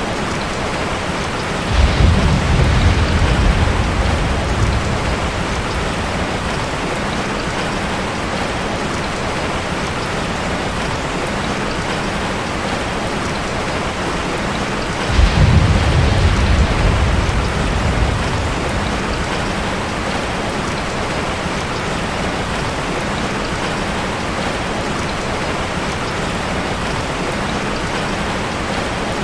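Steady rushing water noise with two deep rumbles, about 2 and 15 seconds in, each swelling up suddenly and fading over about three seconds.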